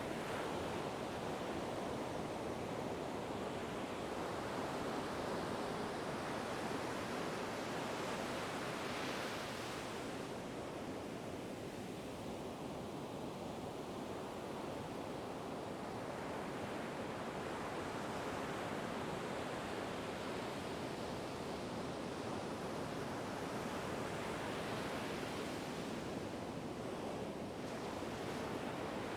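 Ocean waves breaking and washing ashore: a steady rushing surf that swells and eases slowly, with a stronger wave about nine seconds in and another near the end.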